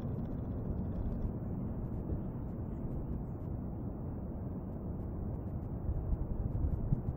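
Low rumbling wind noise buffeting the compact camera's built-in microphone, swelling in gusts near the end.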